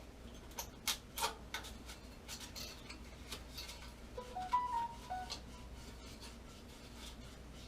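Scattered sharp clicks and taps of small hard objects being handled, with a brief run of short stepped tones about four seconds in.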